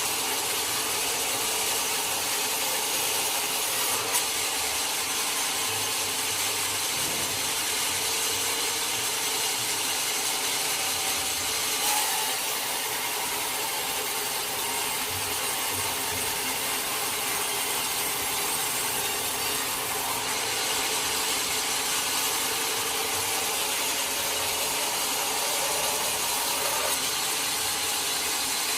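Band sawmill blade cutting steadily through a teak log, an even, unbroken sawing noise with two brief knocks, at about four seconds and twelve seconds in.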